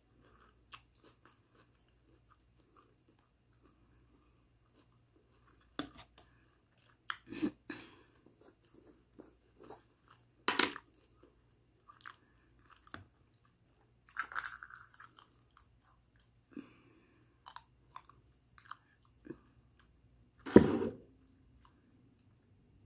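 Close-up eating sounds of barbecued chicken being chewed and crunched, heard as separate short sounds with quiet gaps between them; the loudest comes near the end.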